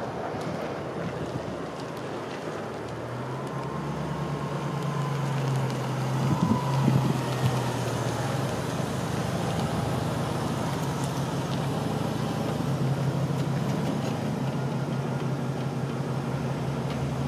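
Chevrolet SSR pickup's supercharged 5.3-litre V8 running at low speed as the truck drives up and past, a steady engine hum that grows louder from about three seconds in and is loudest around six to seven seconds.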